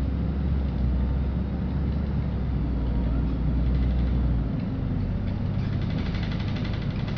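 Inside a LiAZ-5292.65 city bus under way: a steady low engine drone that eases off about four and a half seconds in, then a rapid fine rattle near the end.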